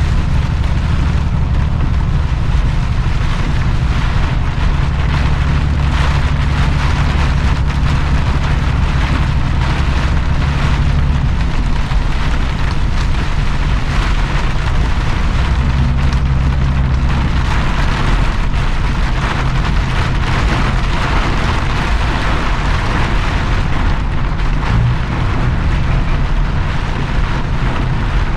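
A straight truck's engine running, heard from inside the cab, under the steady hiss of heavy rain and tyres driving through standing water. The engine note shifts a few times, around the middle of the stretch.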